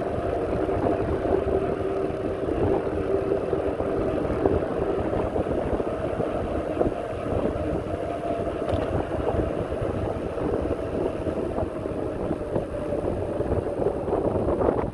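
Wind rumbling on the microphone of a moving bicycle, with a steady hum underneath.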